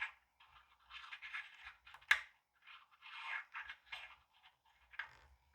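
A cleaning stick scrubbing and scraping around the bezel groove of a watch case in short, irregular scratchy strokes, cleaning it out with alcohol before gluing. There is a sharp click about two seconds in.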